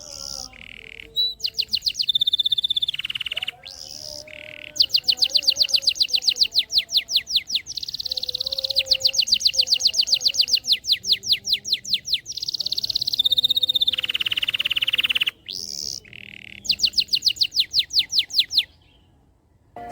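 Domestic canary singing continuously: long runs of rapid trills at about ten notes a second, broken by held whistled notes. The song stops about a second before the end.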